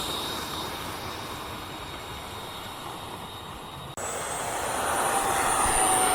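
Electric ducted-fan RC jet running: a steady rushing fan noise, then, after a sudden break about four seconds in, a high whine over the fan rush that grows louder toward the end.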